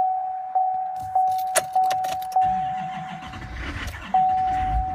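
A vehicle's dashboard warning chime dings about every half second, with keys clicking in the ignition. Then the diesel engine cranks over on the starter for a second or two while the chime drops out, and the chime comes back. This is a cold-cranking attempt in extreme cold with fuel the owner believes has gelled.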